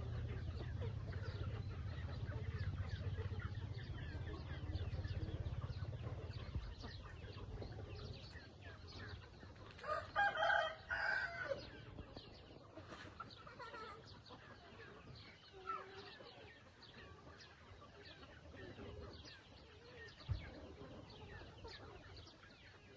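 A flock of chickens clucking and chirping throughout, with a rooster crowing loudly once about ten seconds in. A low rumble underlies the first several seconds, and there is a single thump near the end.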